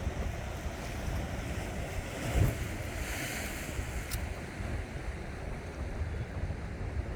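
Sea waves washing on the shore with wind buffeting the microphone; a louder wash swells and fades a little before halfway through.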